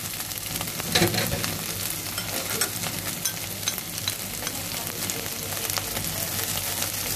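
Sliced onions, green chillies and ginger-garlic paste frying in mustard oil in a stainless steel pan: a steady sizzle with scattered small pops and crackles. There is a louder knock about a second in.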